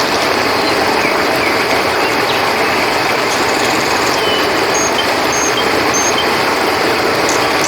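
Flowing river water, a loud steady rush, with a few short high chirps from night insects such as crickets over it, three of them evenly spaced in the second half.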